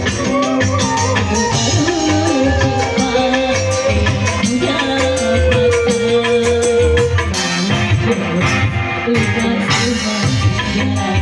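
Band music with a rattling shaker keeping a fast, even beat under a melody line, which holds one long note about halfway through.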